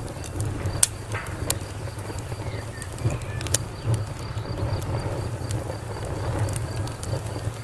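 Wood fire burning: a low, steady rumble of flames with scattered sharp crackles and pops, the loudest just under a second in. A faint high chirp repeats evenly, about three times a second.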